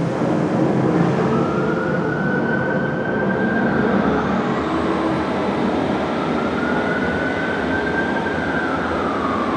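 CrossCountry class 221 Voyager diesel-electric train running loud at the platform, with a rumble under a whine that rises, holds and falls twice.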